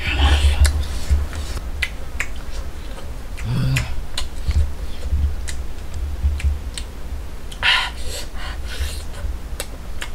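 A man chewing and lip-smacking on cooked wild boar meat: a run of short wet clicks, over a low rumble.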